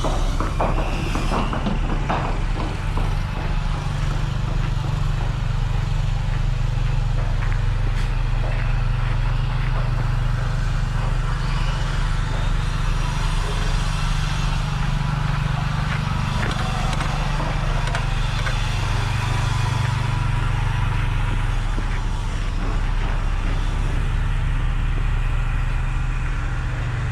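Steady low hum of a running motor vehicle engine, over a background of street noise.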